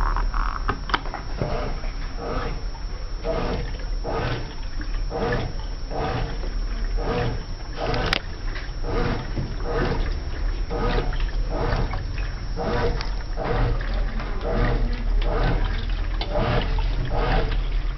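Brastemp washing machine agitating a load in water: a rhythmic swish-and-slosh about twice a second over a steady low motor hum.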